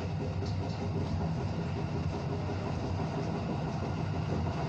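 Joban Line local electric train running along the track, heard from inside behind the driver's cab: a steady rumble of running noise with a low, even hum underneath.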